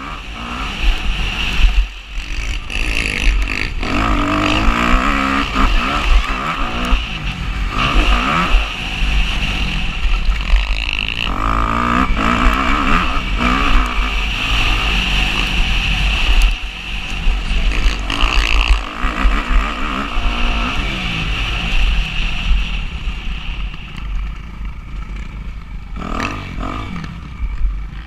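Motocross motorcycle engine at race speed, revving up and down as it works through the gears, easing off somewhat over the last few seconds.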